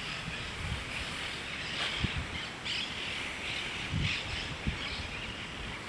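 Birds chirping and calling over steady outdoor background noise, with a few short low thumps.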